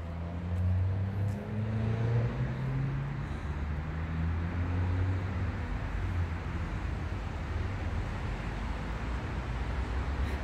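Motor vehicle engine running: a steady low rumble whose pitch shifts slightly up and down.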